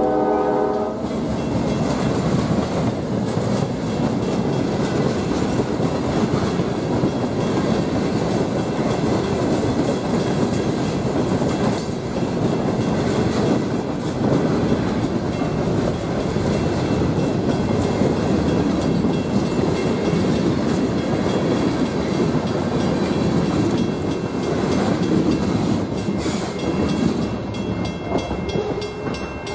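Freight train's hopper cars rolling past, a steady rumble and clickety-clack of steel wheels on rail, after the locomotives' pitched tones die away about a second in. The rumble fades as the last car goes by near the end.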